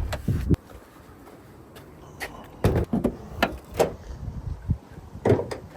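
A series of knocks and thumps: a heavy thud right at the start with two more close behind, then a string of sharper knocks and clunks over the next few seconds.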